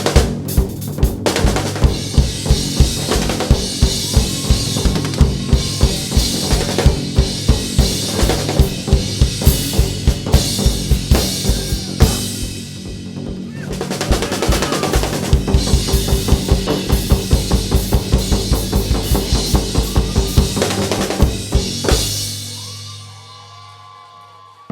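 Live band music from a gugak ensemble, a drum kit keeping a fast, steady beat over sustained bass notes. The beat drops out briefly about halfway through, comes back, then the music stops and rings away near the end.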